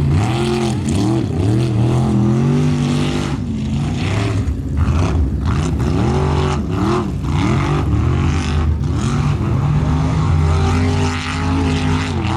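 Formula offroad race car's engine revving hard, its pitch climbing and dropping again and again as the throttle is worked on and off.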